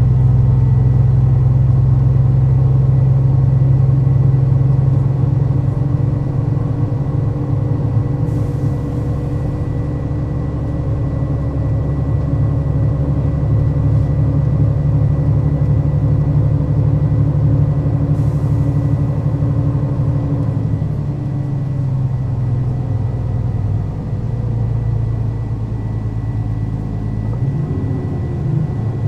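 Mercedes-Benz O 530 Citaro city bus engine running steadily under way, with a constant thin high whine. Two short hisses come about eight and eighteen seconds in, and the engine note drops and eases off about two-thirds of the way through.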